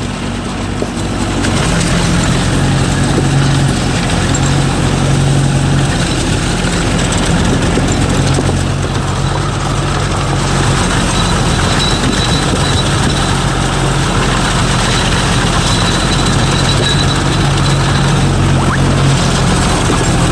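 Swaraj tractor's diesel engine running steadily under load, driving a rotavator in low first gear, with a steady hum that gets louder about a second and a half in.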